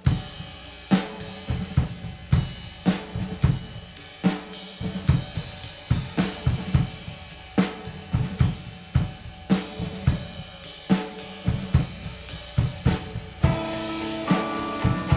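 A rock drum kit playing a beat on its own, with kick, snare, hi-hat and cymbal hits. Other instruments join with held notes near the end.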